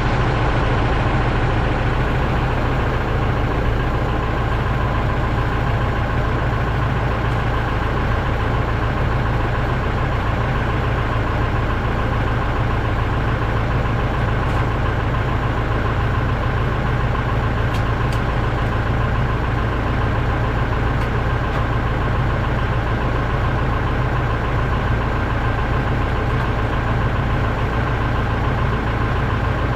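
A heavy vehicle's engine running steadily at a constant speed, a deep even hum with no change in pitch.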